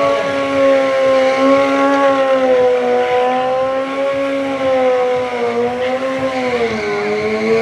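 Stunt motorcycle engine held at high, fairly steady revs, wavering slightly and dropping in pitch near the end.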